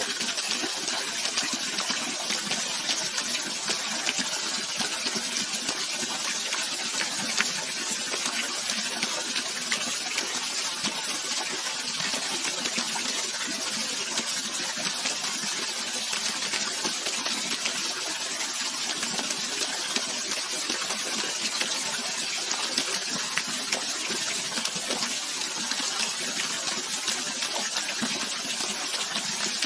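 Rushing water flowing steadily, an even hiss that holds strongest in the upper range.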